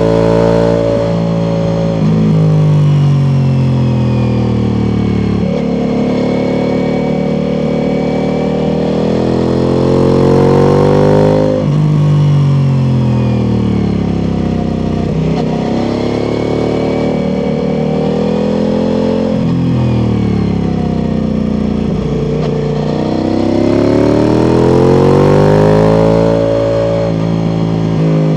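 Ducati Multistrada V4 Pikes Peak's V4 engine through an Akrapovic exhaust, riding hard: engine speed climbs and falls over and over, with sudden jumps and drops in pitch at the gear changes, under a hiss of wind.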